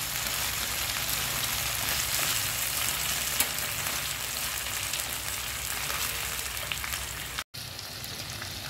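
Squid sizzling in a thick, reduced fish-sauce glaze in a frying pan: a steady hiss, with a few light taps of chopsticks stirring. The sizzle breaks off briefly near the end and is quieter after.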